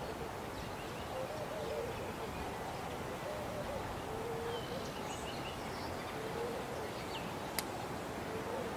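Birds calling in the open: one bird repeats a short low phrase about once a second, with fainter higher chirps from other birds over a steady background rush. A single sharp click comes near the end.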